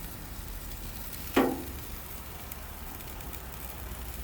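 Chicken wings and fish sizzling on a grill, a faint steady hiss, with one short sharp clink and a brief ring about a second and a half in.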